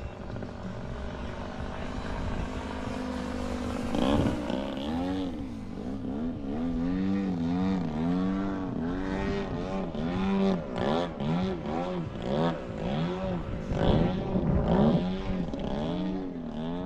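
Extreme Flight Extra 260 radio-controlled aerobatic plane flying overhead, its motor and propeller drone repeatedly rising and falling in pitch as it passes back and forth and changes throttle through manoeuvres.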